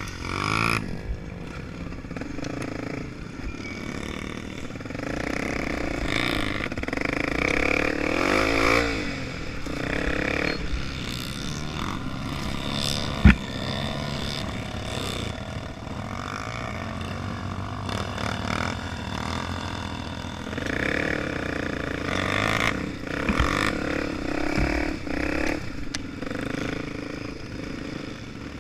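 Honda Tornado 250's single-cylinder four-stroke engine running while riding, its pitch rising and falling as the throttle is opened and closed. A single sharp knock about halfway through.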